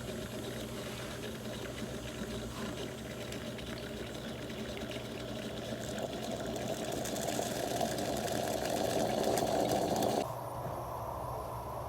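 Noon East 3.5-bar steam espresso machine running as it brews or steams. It grows louder, then cuts off suddenly about ten seconds in, leaving a low steady hum.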